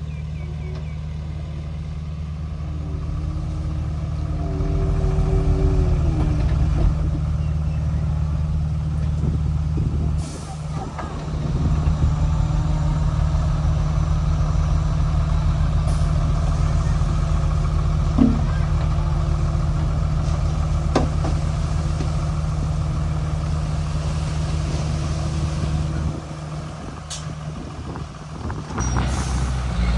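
Komatsu D31P bulldozer's diesel engine running under load with a steady low drone. It eases off briefly about ten seconds in and again near the end, and a few sharp knocks come through.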